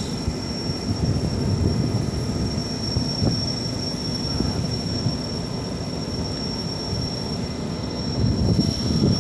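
Steady engine and machinery rumble with a constant high-pitched whine.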